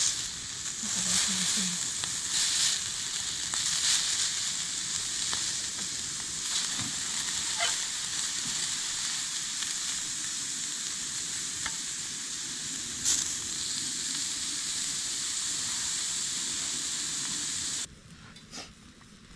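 Food frying in hot oil in a camp pan: a steady loud sizzle with scattered crackles and spitting pops, cutting off abruptly near the end.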